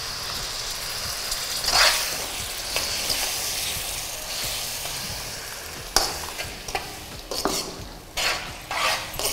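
Onion-tomato masala frying in oil in a kadai sizzles as tamarind water is poured in, then a ladle stirs and scrapes through it, with several sharp scrapes against the pan in the last few seconds. This is the stage where tamarind extract is added to the cooked masala for a fish kulambu.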